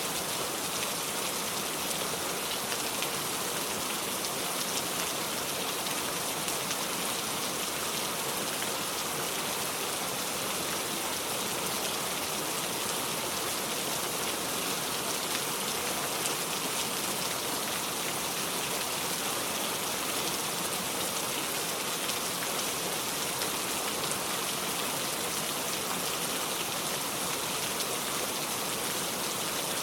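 Heavy rain falling steadily: a dense, even hiss of countless drops, with no thunder.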